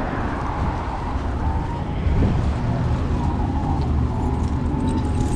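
Steady low rumble of motor vehicle noise with a general street hum, swelling slightly about two seconds in, and a few faint steady tones above it.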